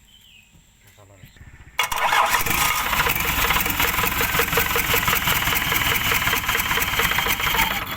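Isuzu dump truck's diesel engine being cranked on the starter for about six seconds, with a rhythmic chug, then cut off suddenly without the engine taking over and running.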